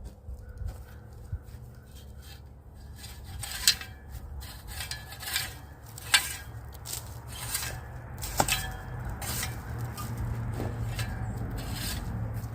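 Irregular scraping and rubbing of hand tools at work, with a few sharp knocks.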